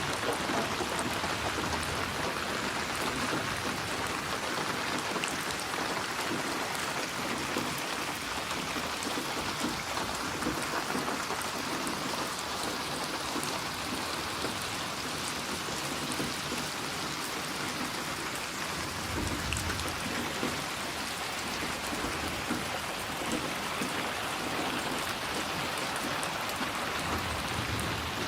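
Steady heavy rain: a dense, even patter of raindrops on a surface, with a short low rumble about two-thirds of the way through and another near the end.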